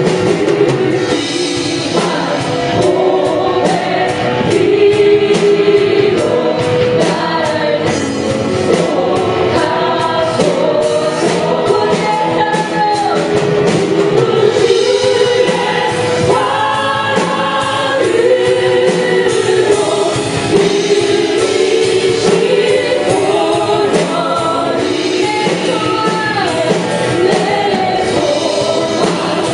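Live contemporary Christian worship music: a praise band playing with a group of voices singing together, drums keeping a steady beat.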